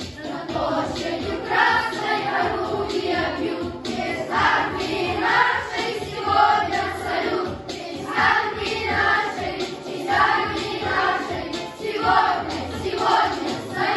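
A boys' vocal ensemble singing together in phrases of a song.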